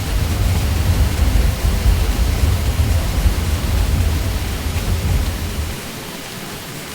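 Ceiling fan hum: a steady, even rushing noise with a deep low rumble underneath. About six seconds in the rumble drops away, leaving a quieter, even hiss.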